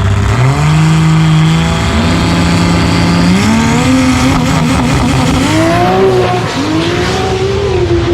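Toyota 2JZ inline-six in a drag-race 240 launching and accelerating hard down the strip. The engine note jumps up at the launch, then climbs, drops and climbs again as it shifts up through the gears.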